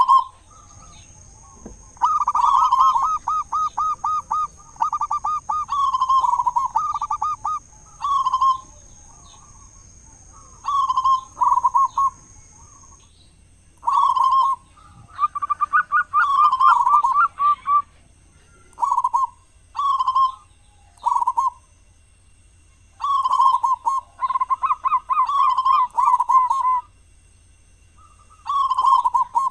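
Zebra dove (perkutut) singing its cooing song: phrase after phrase of quick rolling notes, each lasting a second or two, with short pauses between them.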